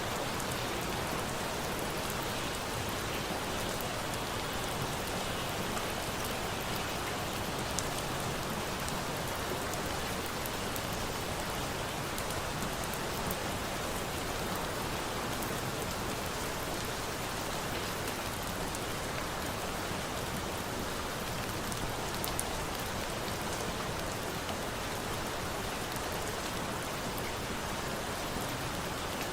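Steady rain falling, mixed with a bonfire; a few faint sharp crackles stand out, once about a quarter of the way through and again about three quarters through.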